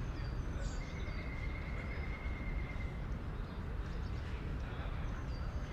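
Outdoor city-park ambience: a steady low rumble under small birds chirping, with a thin high tone held for about two seconds near the start.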